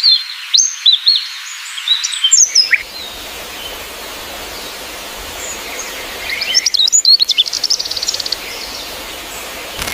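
Small birds chirping in quick, high calls for the first couple of seconds, then a steady outdoor hiss, with another run of chirps and a fast trill about seven seconds in.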